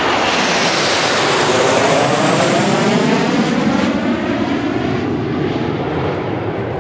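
Kawasaki T-4 jet flying past low, its turbofan noise swelling quickly, loudest in the first few seconds, with a sweeping phasing hiss as it passes, then slowly dying away.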